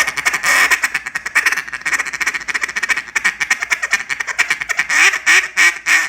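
Molded Black River Tyrant single-reed duck call blown in a fast, rolling feed chuckle on its low end: a rapid, unbroken run of short clucking notes.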